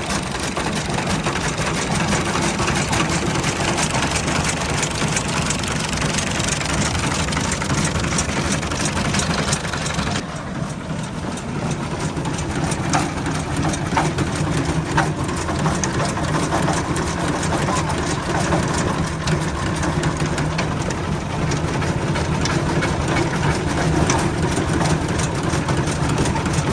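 A 65 hp Al-Ghazi tractor engine running steadily while driving a wheat reaper, with a dense mechanical clatter over the engine note. About ten seconds in, the sharper upper hiss drops away abruptly and the drone carries on.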